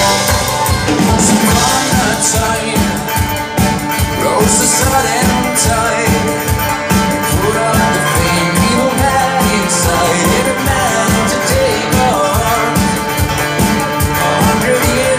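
Live band playing a fast, steady beat, with singing.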